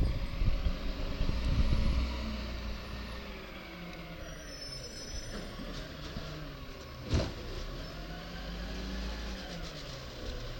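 Garbage truck engine running, loud and rumbling for the first two seconds, then dropping back to a steadier, quieter run with its pitch wavering. A single sharp knock about seven seconds in.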